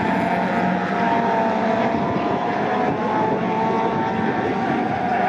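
Engines of pre-1966 touring cars running on the circuit, a steady, layered sound with several pitches slowly wavering up and down.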